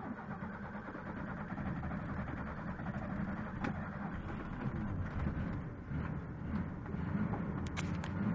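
A 1986 Ford F-150's engine catches right at the start and keeps running steadily on a cold start in freezing weather, after having stalled. Two light clicks come through, one about halfway and one near the end.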